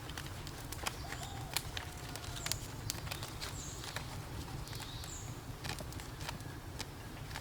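Birds giving short, quick chirps that drop in pitch, several times over several seconds, among scattered sharp clicks and a steady low rumble.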